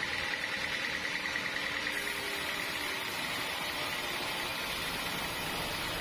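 Sawmill machinery running steadily, a constant engine-like hum with a few faint steady tones; the hiss gets brighter about two seconds in.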